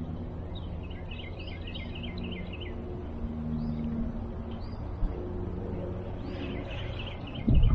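Songbirds chirping in two quick runs of short high notes over a faint low steady hum. A loud low rumble starts near the end.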